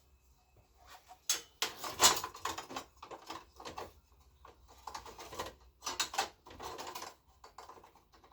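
Clicking and clattering of hand tools and small metal parts being handled while working on a motorcycle, in two dense bursts from about a second in and around five to seven seconds, with scattered clicks near the end.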